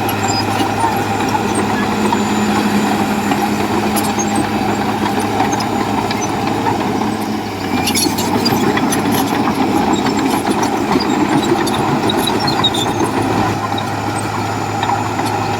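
Bulldozer's diesel engine running steadily under work, a constant drone that dips and changes note about halfway through, with scattered clicks and knocks over it.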